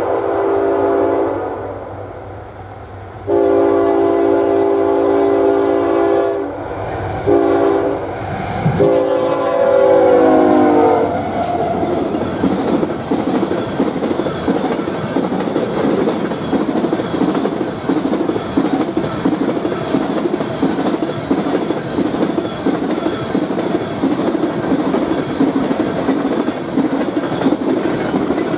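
A GE freight locomotive's air horn sounding the grade-crossing signal: the tail of one long blast, then a long, a short, and a final long blast whose pitch drops as the locomotive passes. The tank cars then roll by, steel wheels clacking in a quick rhythm over the rail joints.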